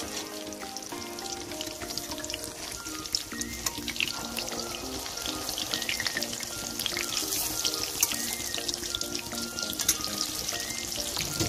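Besan-battered colocasia (arbi) leaf fritters sizzling and crackling in hot oil in a kadhai, with a metal spatula scraping the pan now and then as they are turned. Background music plays underneath.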